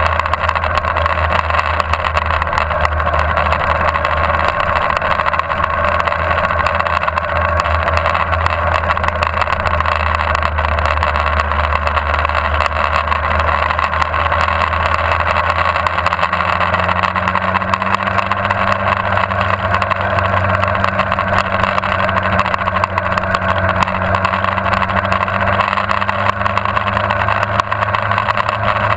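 Motorcycle engine running steadily while riding, recorded by a camera mounted on the bike; the engine note shifts up a little about halfway through.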